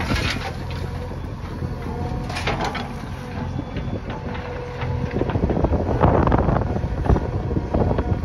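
Backhoe loader's diesel engine running, with wind buffeting the microphone and scattered knocks and rattles; it gets louder about five seconds in.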